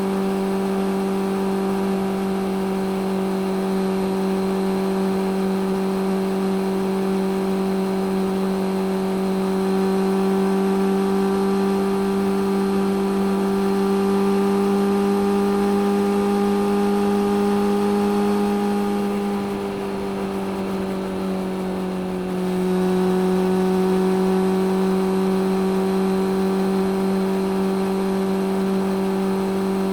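Suzuki GSX600F's inline-four engine pulling at steady revs under way, the pitch creeping up slowly. About two-thirds through it eases off for a few seconds, dropping slightly in pitch and loudness, then comes back on throttle.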